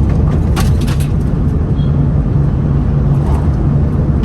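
A car's steady road rumble, heard from inside the cabin, while driving on a road surfaced with loose stone chippings. A few sharp ticks come between about half a second and a second in, from chippings thrown up against the car.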